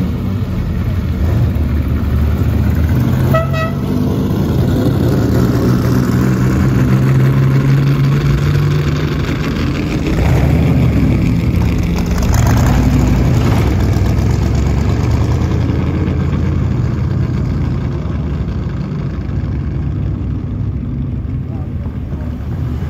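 Ferrari 250 GT SWB and 250 Testa Rossa V12 engines running loud as the cars pull away and drive off down the street. A short horn toot sounds about three and a half seconds in.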